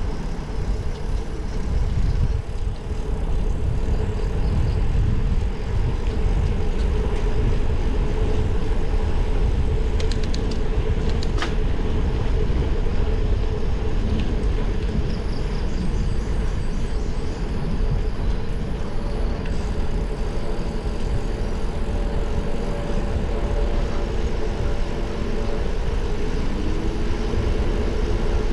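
Steady low rumble of road and wind noise on a moving bicycle, with a faint steady hum over it and a few light clicks about a third of the way in.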